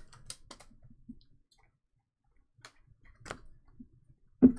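Trading cards being handled and sorted: a scatter of soft clicks and flicks, with a quiet gap in the middle and one sharp click near the end.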